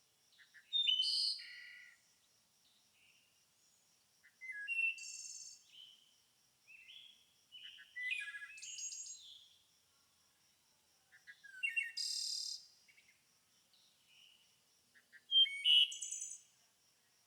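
A songbird singing short, varied phrases of chirps, quick glides and trills, about five phrases a few seconds apart, over a faint, steady, high-pitched pulsing.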